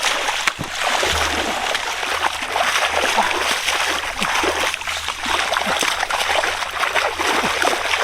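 Steady splashing and sloshing of shallow water, many small splashes following each other closely.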